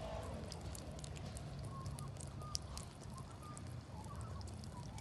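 Cat lapping water: quick, faint, irregular clicks, several a second, over a low steady hum.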